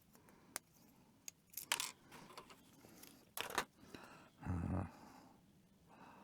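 Small clicks and rattles of plastic model-kit parts and tools being handled on a desk, with one dull thump about four and a half seconds in.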